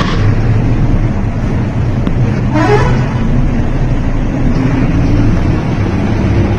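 A vehicle running with a steady low rumble, with a short rising horn-like tone about two and a half seconds in.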